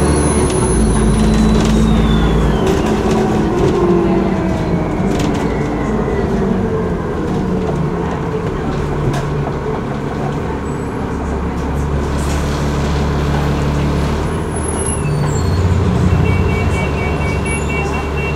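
Alexander Dennis ALX400 double-decker bus engine running under way, with a high turbocharger whistle that rises, falls and fades in the first few seconds, then a lower falling whine. A steady two-note high tone sounds near the end.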